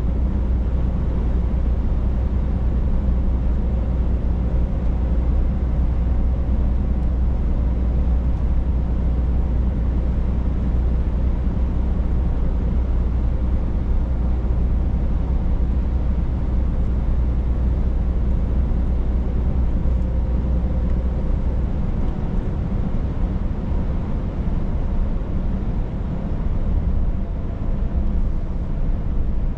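Scania truck on the move: a steady low engine drone with road noise, which lightens about three quarters of the way through.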